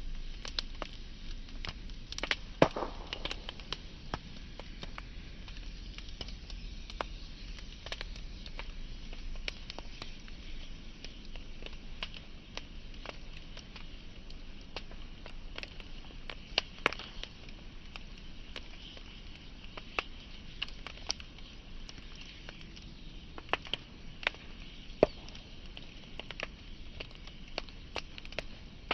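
Wood fire burning with a steady low hiss and irregular crackles and pops, a few sharper snaps standing out.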